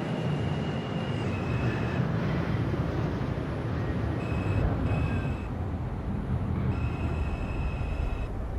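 Steady low rumble and hum inside an R142 subway car at a station stop, with thin high electrical tones that come and go.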